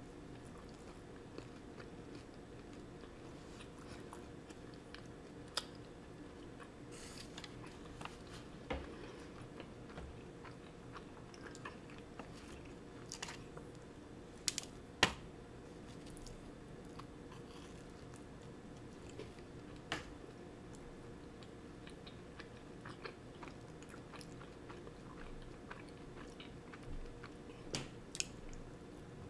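Close-up chewing and biting of a toasted cinnamon crunch bagel with cream cheese: soft mouth sounds broken by scattered sharp crunchy clicks, the loudest a pair about halfway through. A steady low hum runs underneath.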